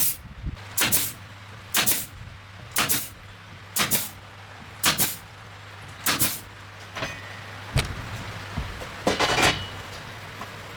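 A hand tool struck repeatedly, about once a second, with eight or so sharp blows. Near the end comes a longer, rougher scraping noise.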